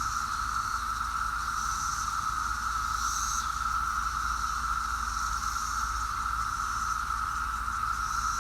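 Brood X periodical cicadas in full chorus: a steady, unbroken drone at one pitch.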